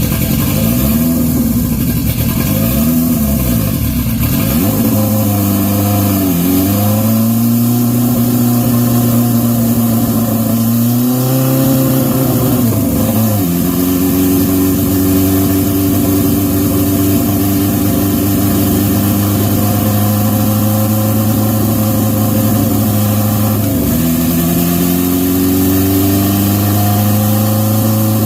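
Turbocharged Honda CB750 SOHC inline-four running on a dyno: two quick throttle blips, then held at steady revs under load, with brief dips in revs and recoveries three times before settling higher.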